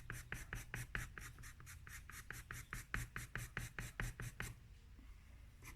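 Pencil scratching on paper in rapid, even back-and-forth strokes, about six a second, shading in a drawing; the strokes pause about four and a half seconds in and start again just before the end.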